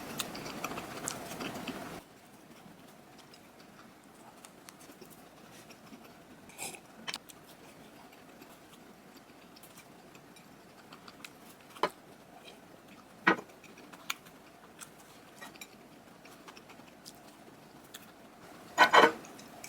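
Quiet room tone with scattered light clicks and taps, like small objects or utensils being handled. A louder hiss cuts off about two seconds in, sharp taps come about 12 and 13 seconds in, and a louder cluster of clicks comes near the end.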